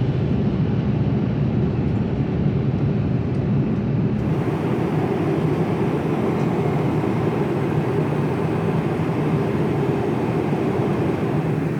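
Inside the cabin of an Airbus A350-900 airliner: a steady, loud noise from the jet engines and airflow, strongest in the low range.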